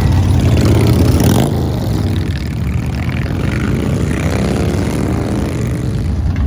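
Motorcycle engines running with a loud, low rumble; in the middle one engine's pitch rises and then falls back.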